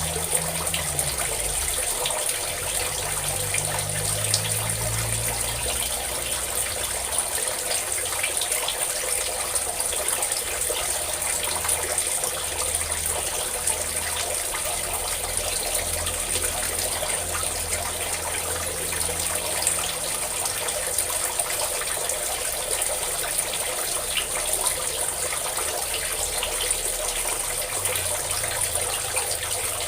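Steady stream of pouring, splashing water, an even rushing hiss with no pauses.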